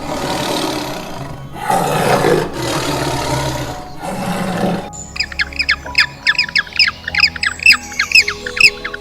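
A large animal gives several hoarse roars of about a second each. About five seconds in these give way to a rapid series of shrill, quickly falling calls, two or three a second. Background music plays throughout.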